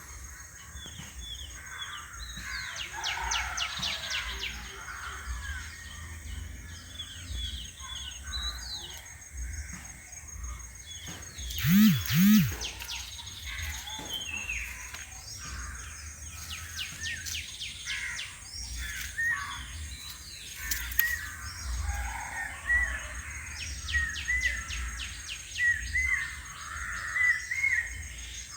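Several birds chirping and calling, with rapid trills and runs of short repeated chirps. About twelve seconds in, two loud calls in quick succession stand out above the rest, over a low rumble.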